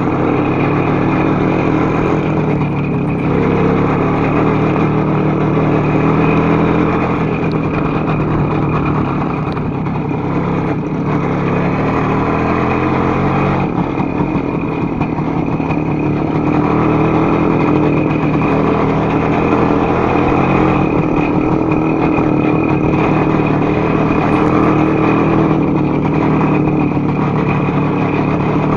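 Voskhod-3M motorcycle's single-cylinder two-stroke engine running steadily, its pitch shifting slightly up and down.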